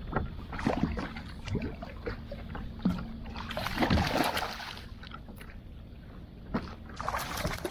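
Knocks and bumps on a fishing kayak, with two longer bursts of splashing, sloshing water.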